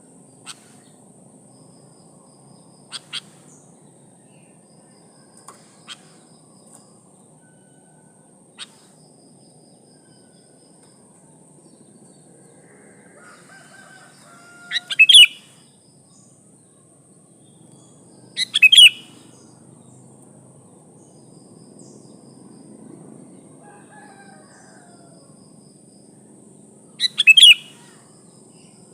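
Sooty-headed bulbul (kutilang) calls: a few faint short chips, then three loud, short, bubbly calls a few seconds apart, a female's call to draw a male. A steady high insect drone runs underneath.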